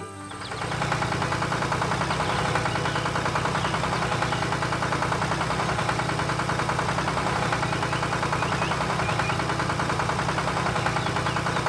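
An engine idling steadily, with a fast, even pulse that does not change in speed or level.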